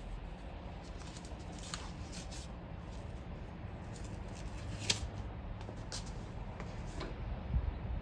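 Scattered light clicks and clatter of metal engine parts and hand tools being handled, over a low steady hum.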